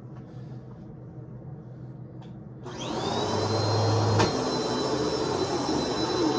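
A vacuum cleaner switched on after a few soft clicks, its motor spinning up with a rising whine, then running steadily with a high whine over a rushing air noise.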